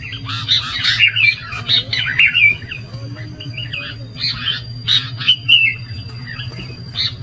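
Sooty-headed bulbul (kutilang) calls: bursts of quick chirps and squawky, warbling notes, repeated throughout over a low steady hum. This is a bulbul lure call (pikat), the kind played to draw bulbuls in.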